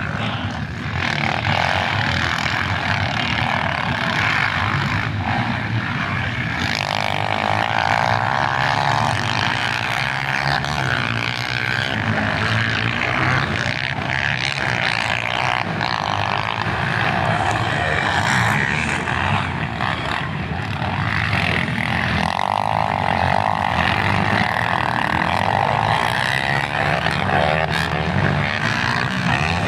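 Motocross bike engines running hard and revving, the pitch rising and falling continuously without a break.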